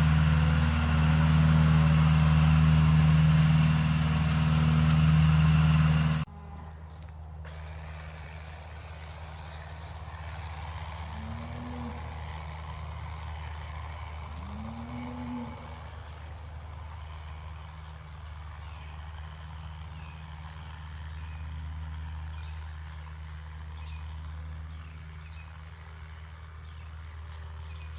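John Deere tractor engine running steadily with a low hum, loud for about the first six seconds, then suddenly much quieter and farther off, still humming evenly.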